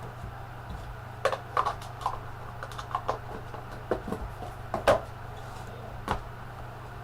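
Trading cards and their packaging being handled: a scattering of light clicks, taps and rustles from about a second in, over a steady low hum.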